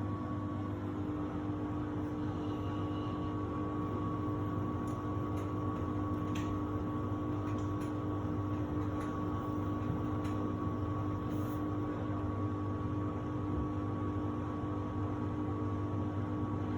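Samsung WD70T4047CE washer-dryer running in its drying cycle: a steady mechanical hum with a constant high tone over it.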